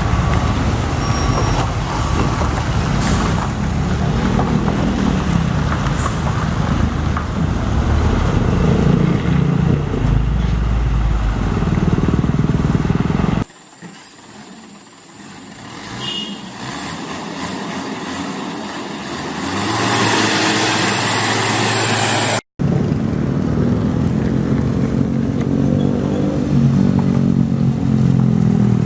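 Heavy trucks' diesel engines running amid road traffic noise, with two abrupt cuts; between the cuts the sound is quieter at first, then grows louder as an engine draws near.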